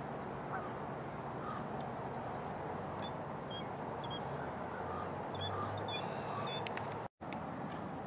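Steady outdoor background noise with a series of faint, short, high bird chirps in the second half. The sound cuts out for an instant near the end.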